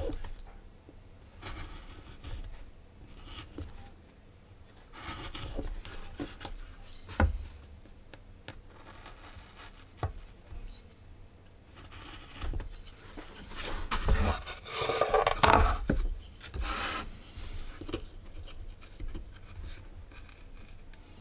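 Wood rubbing and scraping in irregular strokes, with a few sharp knocks; the loudest scraping comes about two-thirds of the way through.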